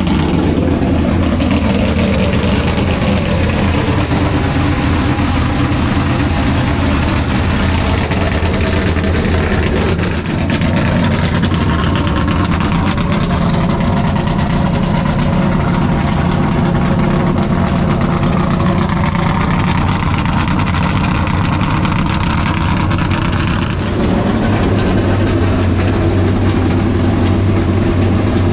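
NASCAR stock car V8 engine running loudly at a steady idle, with a brief dip about ten seconds in and a change in its note near the end.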